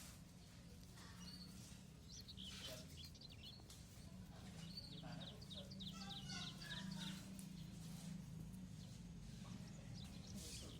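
Sparrow chirping: quick runs of short, high chirps through the middle, over a faint steady low hum.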